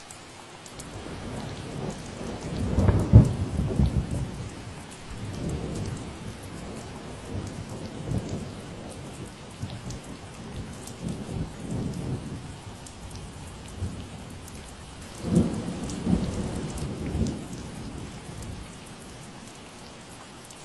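Steady rain falling, with thunder rolling over it twice: a louder rumble peaking about three seconds in, and a second one about fifteen seconds in.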